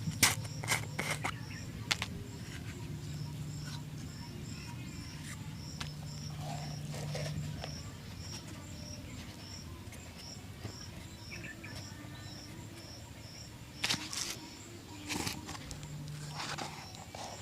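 A few short scraping brush strokes near the start and again near the end, typical of a shoe being brushed and polished. Underneath, a faint high chirp repeats evenly about three times a second, over a low steady hum.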